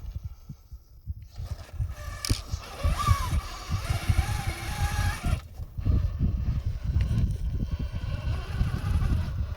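Electric motor and drivetrain of a 1/7-scale RC trail truck whining as it drives, rising in pitch about three seconds in and running steadily for a couple of seconds. Wind buffets the microphone throughout.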